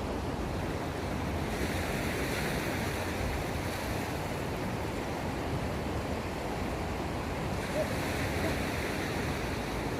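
Sea water washing at the shore with wind on the microphone, a steady rushing that grows louder and hissier twice.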